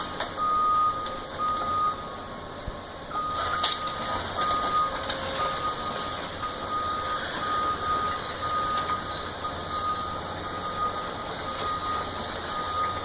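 Backup alarm on heavy demolition machinery beeping in a steady repeating pattern, about one beep a second, with a short break about two seconds in. Under it an engine drones, and a sharp clank sounds a few seconds in.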